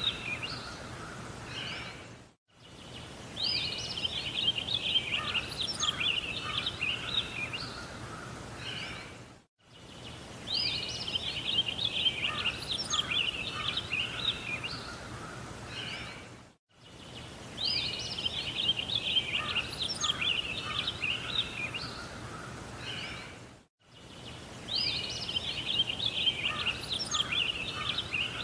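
A looped birdsong recording: the same phrase of quick chirps and trills, opening with a rising note, repeats about every seven seconds over a steady outdoor background. Each repeat is cut off by a brief dropout to silence.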